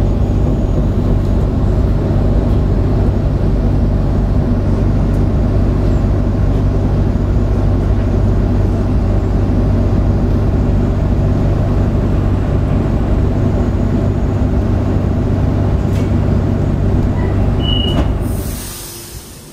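Sydney electric suburban train running, heard from inside the carriage: a steady rumble with an even low motor hum. About eighteen seconds in, the sound cuts away sharply to something much quieter.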